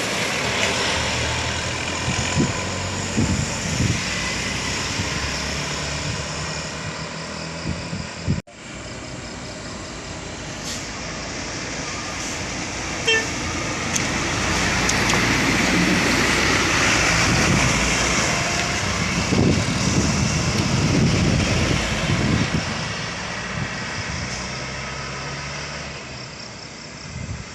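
Truck engines running with road traffic noise, growing louder for several seconds past the middle as a vehicle comes close, with a few short sharp sounds. The sound cuts out briefly about eight seconds in.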